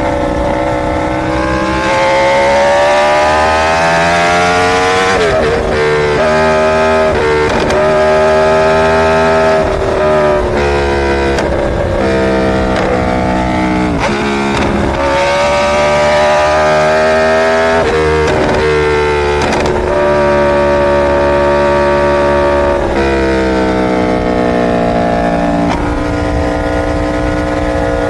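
Inline-four superbike engine under way, its note climbing and dropping again several times with gear changes and throttle changes.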